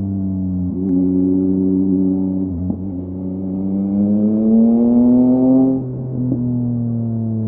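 Yamaha MT-09's three-cylinder engine through a LeoVince LV Race exhaust, pulling under throttle. The pitch rises steadily for about three seconds, then drops sharply near the end.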